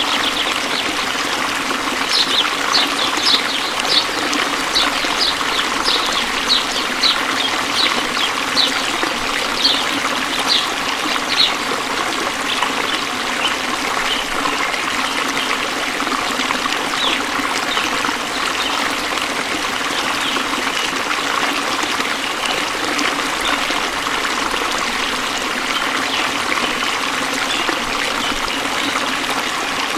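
Waterfall water rushing and splashing steadily. Over roughly the first ten seconds a run of short, high, falling chirps comes about twice a second, with a few more scattered later.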